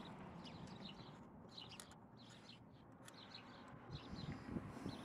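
Faint songbirds chirping again and again over a low steady background rumble, with a few soft knocks near the end.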